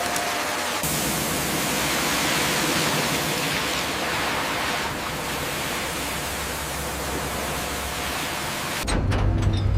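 Steady loud rushing noise that cuts off abruptly about nine seconds in, giving way to a low rumble with a few sharp clicks.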